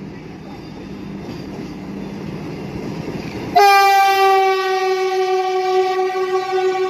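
Vande Bharat Express train approaching with a rumble that grows louder, then about halfway through it sounds its horn: one loud, steady note held to the end.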